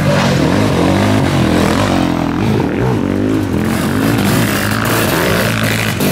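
Sidecar motocross outfits' engines revving through a dirt-track corner, rising and falling in pitch as they back off into the turn and open up out of it.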